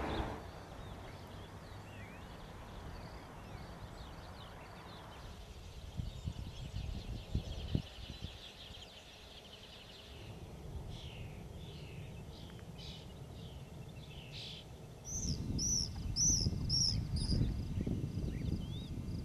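Birds calling in the open air over steady wind noise. Scattered short chirps are followed, about fifteen seconds in, by a run of five or six repeated high calls, as wind on the microphone grows louder.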